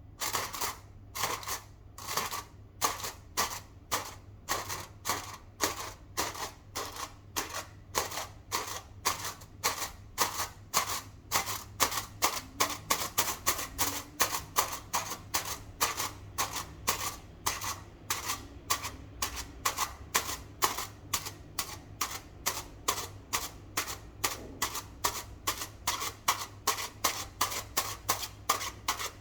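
A long, regular run of sharp clicks or taps, about two a second at first and quickening to three or four a second.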